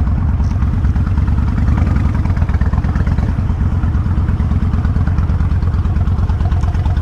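Kawasaki Vulcan 1500 Classic V-twin motorcycle engine running steadily, a dense low pulsing heard from the rider's seat.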